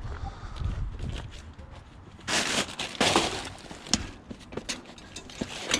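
Scattered scrapes, rustles and clicks of scrap being handled and moved about, with two louder rushes of rustling about halfway through and a few sharp clicks later.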